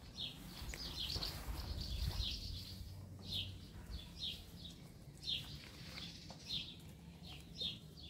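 Small bird chirping repeatedly: short, high, downward-sweeping chirps about one or two a second, over a low rumble that fades out in the first few seconds.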